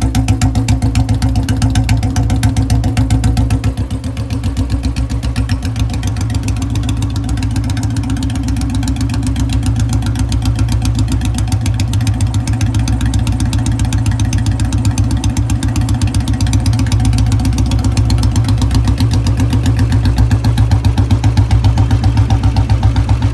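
Royal Enfield Bullet single-cylinder engine idling, its exhaust giving a steady, even thump.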